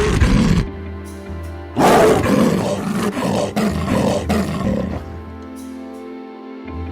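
Leopard's rasping call: a short hoarse grunt at the start, then a longer series of rough, sawing strokes from about two seconds in, fading out by about five seconds, over background music.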